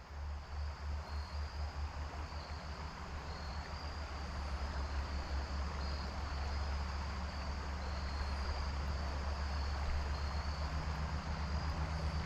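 Creek water running steadily, with a low rumble underneath and a faint high, wavering trill above it.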